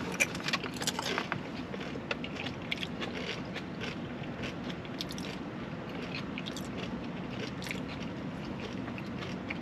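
A person biting and chewing food close to the microphone, with many short wet mouth clicks, thickest in the first second or so and scattered after.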